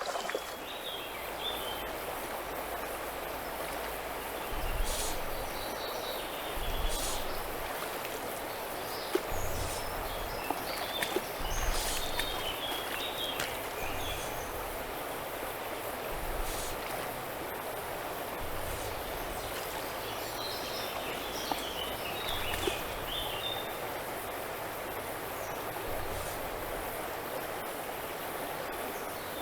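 Mountain river rushing steadily over its bed, with small birds chirping in short bursts of song a few times over the noise of the water.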